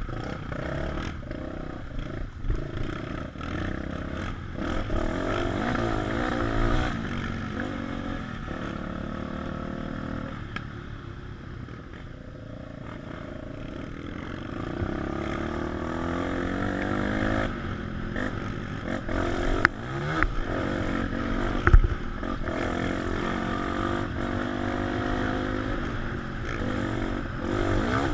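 Single-cylinder four-stroke trail motorcycle ridden off-road, its engine rising and falling in pitch as the throttle is worked, with clattering over rough ground. Two sharp knocks stand out about twenty seconds in.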